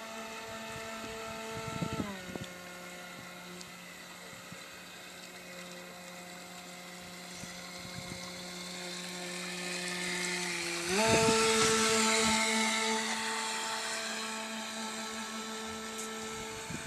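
Small electric motors of a remote-controlled carp bait boat whining steadily. The pitch drops about two seconds in as the boat slows, then rises sharply about eleven seconds in as it speeds up again, loudest just after and fading slowly.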